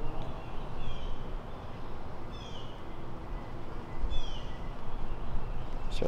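A songbird repeating a short, high call that slurs downward, three times about one and a half seconds apart, over a low steady rumble.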